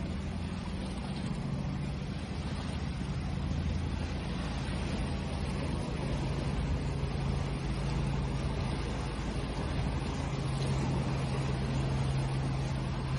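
Steady rush of sea waves with a constant low mechanical hum underneath, swelling slightly in loudness now and then.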